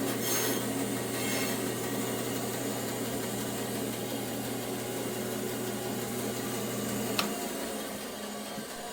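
Bandsaw motor running idle with no cut, a steady hum that stops with a click about seven seconds in as the saw is switched off, then starts to wind down.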